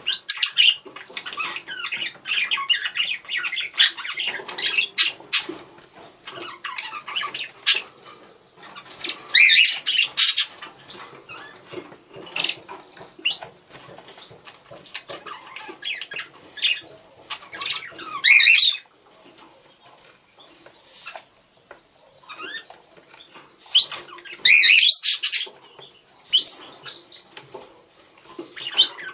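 Budgerigars calling to each other: bursts of fast chattering chirps, warbles and squawks, with short pauses between the bursts.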